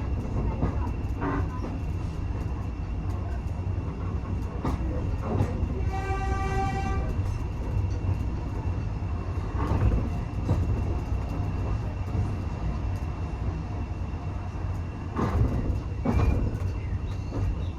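Passenger carriage rumbling steadily along the track, with occasional knocks from the wheels over rail joints. About six seconds in, the locomotive's whistle sounds once for about a second.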